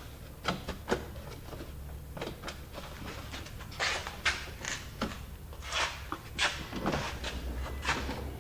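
A string of irregular light clicks, taps and short scrapes from plastic trim and parts being handled.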